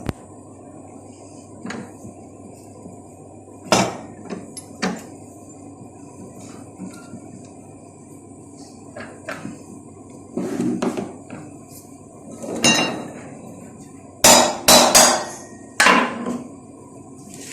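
Hammer blows and tool knocks on metal, scattered and irregular, with some scraping in the middle and a quick run of four loud strikes near the end.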